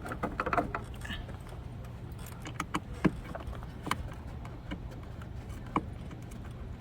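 Light clicks and taps of a screw and plastic filter cover being handled and fastened by hand: a flurry in the first second, then single clicks about three, four and six seconds in, over a steady low hum.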